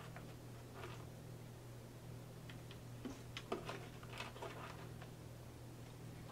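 Close-miked eating sounds: a few soft crunches and mouth clicks, most of them between about two and a half and five seconds in, over a steady low hum.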